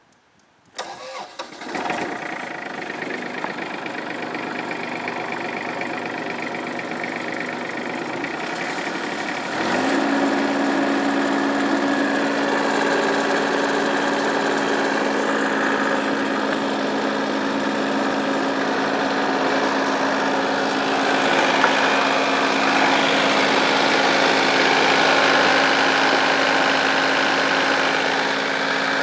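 Massey Ferguson tractor engine starting about a second in and running. About ten seconds in it steps up louder with a brief rise in pitch, then runs steadily.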